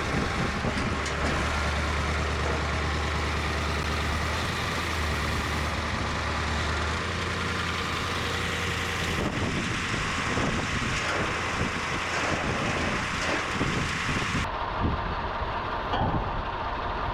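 Truck engine running steadily, with scattered knocks and clatter in the later part. The sound changes abruptly several times, as at edit cuts.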